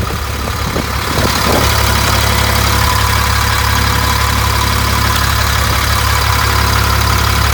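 Cummins 8.3-litre inline-six turbo diesel of a rear-engine school bus idling steadily, its sound growing louder about a second in and then holding even.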